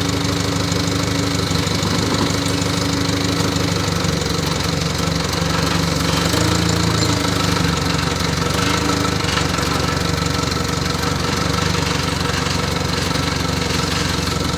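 Moshito 25 kVA water-cooled diesel generator's engine running at a steady speed.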